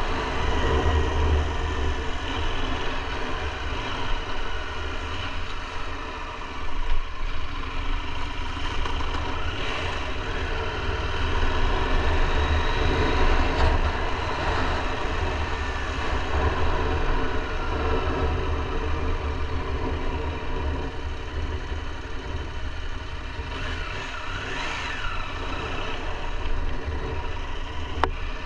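KTM 890 Adventure R's parallel-twin engine running while riding, its pitch rising and falling with the throttle, under a heavy low wind rumble on the action-camera microphone.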